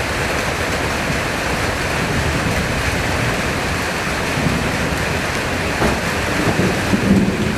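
Heavy summer-storm rain pouring steadily, with low rumbles swelling up in the second half.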